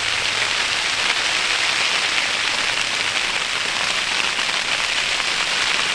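Ice pellets falling steadily on the hot tent's fabric: a dense, even hiss of countless small hits.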